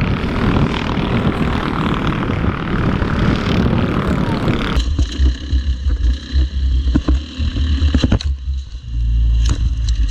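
Engines of small off-road race vehicles running during a race. About five seconds in, the sound changes to a heavy low rumble with a steady whine and scattered sharp knocks.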